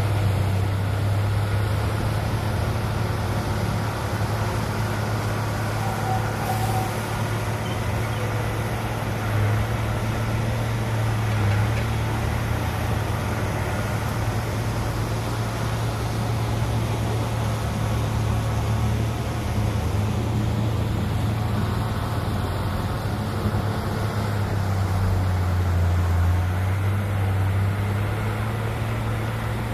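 Heavy diesel engine of earthmoving machinery running steadily, a deep continuous hum that swells a little at times.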